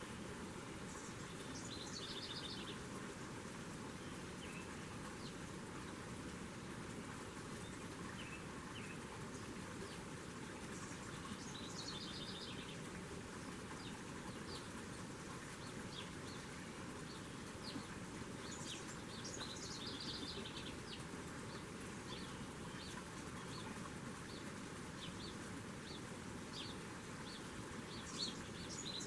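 Small birds at a feeder giving short trilled calls of rapid repeated high notes, about four times, over a steady low background noise.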